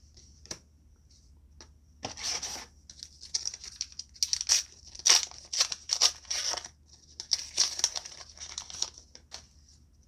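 A foil trading-card booster pack being torn open and its wrapper crinkled, in a run of dense rustling bursts starting about two seconds in, after a few small clicks.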